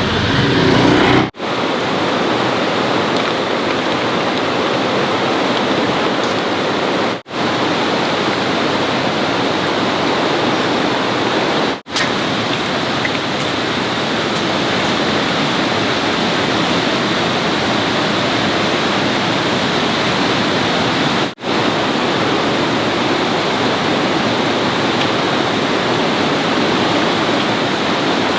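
Steady loud rushing noise, even and without any tone, broken four times by a split-second silence.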